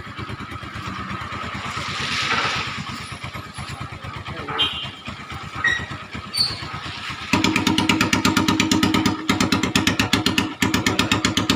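Motorcycle engine idling through a shop-made exhaust, with evenly spaced firing pulses of about ten a second. About seven seconds in the exhaust note becomes much louder and stays steady.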